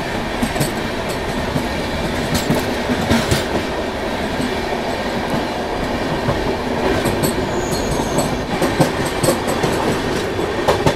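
Express train coaches running along the track: a steady loud rumble with sharp, irregular clicks of the wheels over the rail joints.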